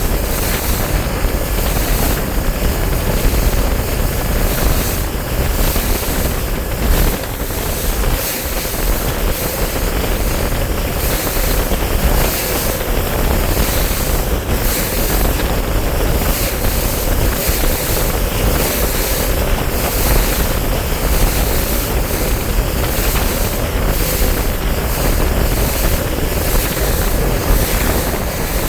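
A bass boat underway on open water: a steady outboard motor drone under heavy wind buffeting the microphone and rushing water.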